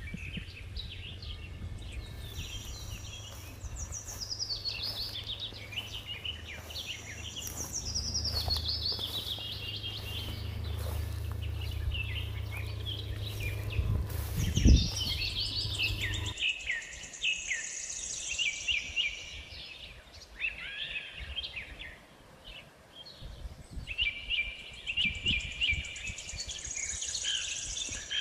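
Songbirds singing and chirping, several phrases overlapping. A low steady rumble sits underneath for the first half and stops abruptly, with a single thump shortly before it stops.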